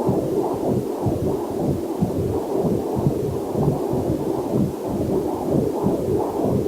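Whooshing, pulsing heartbeat as heard through a fetal Doppler heart monitor, in a steady rhythm, with faint waterfall hiss beneath.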